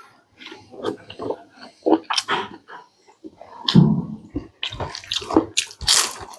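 Wet eating sounds: chewing, lip-smacking and slurping of food, an irregular string of short smacks and clicks, with a louder hissing slurp near the end.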